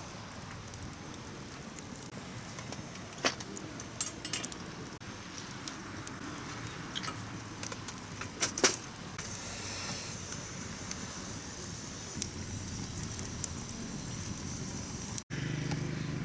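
Wood campfire burning with a steady hiss, broken by scattered sharp pops and clinks, several in quick succession around three to four seconds in and the loudest a little past eight seconds. The sound cuts out for an instant near the end.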